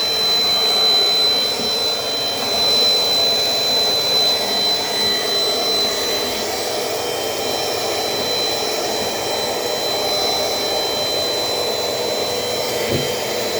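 Dirt Devil Dynamite Plus vacuum cleaner running steadily, its motor giving a constant high whine over a rushing airflow.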